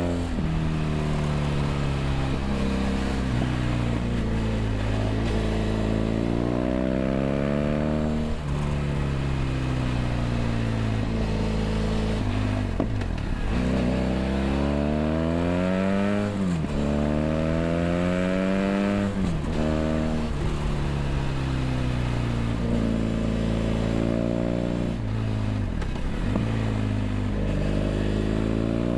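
BMW F800GS motorcycle's parallel-twin engine through a LeoVince LV ONE EVO stainless exhaust, heard from on board while riding. The engine note climbs repeatedly under throttle and drops suddenly at gear changes, with stretches where it falls away as the bike slows.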